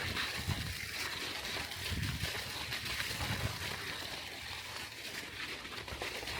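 Bicycle tyres rolling over wet, slushy snow: a steady hiss, with irregular low rumbles on the microphone.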